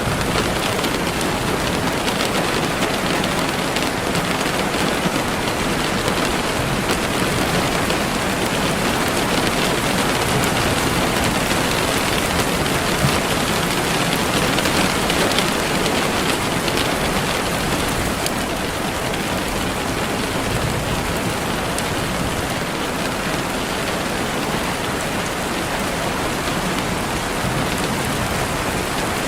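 Steady rain falling on hard surfaces, a dense, even patter with no letup.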